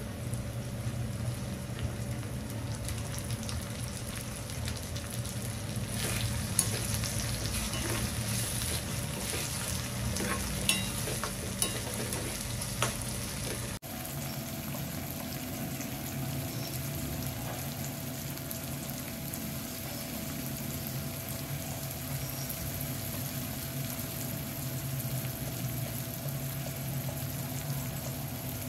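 Food sizzling as it fries in a pan, with a few sharp clinks of a utensil stirring in the first half. A faint steady hum runs underneath, and the sound shifts abruptly about halfway through before the sizzle carries on steadily.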